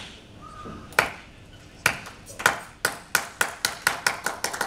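One person clapping hands in a 'rain clap': single claps, slow and spread out at first, then quickening to a fast, even patter of several claps a second, like rain picking up.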